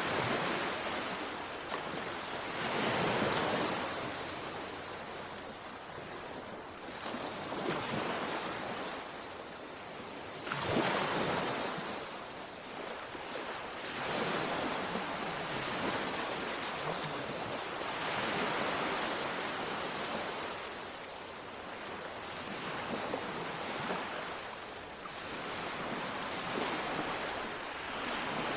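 Sea waves washing onto a shore, each swell of surf rising and falling every few seconds, with the strongest surges about three and eleven seconds in.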